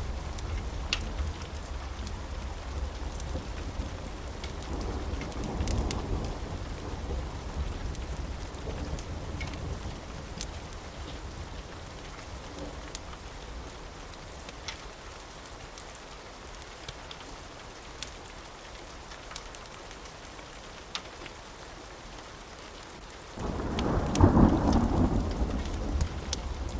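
Steady rain with rolling thunder and occasional sharp ticks. A low rumble swells and fades, then a sudden loud thunderclap breaks about 23 seconds in and rumbles on.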